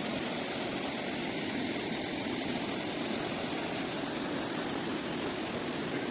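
Steady rushing of running water from the spring's cascades, an even noise that neither rises nor falls.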